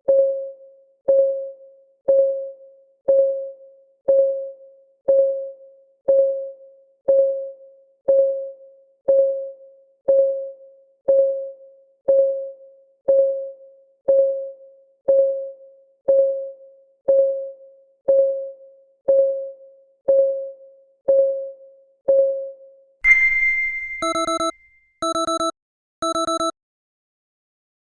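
Timer clock ticking once a second with short, pitched ticks as the countdown runs out. About 23 seconds in, the countdown ends and the alarm sounds: a single ringing chime, then three electronic beeps about a second apart.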